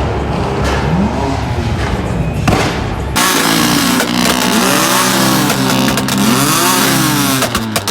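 BMW M3/M4 exhaust being revved, the engine note climbing and dropping several times in quick succession. The sound changes abruptly about three seconds in, and a rapid series of sharp pops comes near the end.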